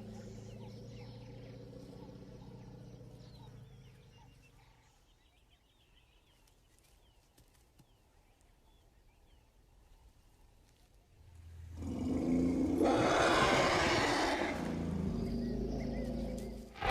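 An elephant trumpeting loudly and harshly for about four seconds, starting about twelve seconds in. Before it, in the first few seconds, there is a low steady drone.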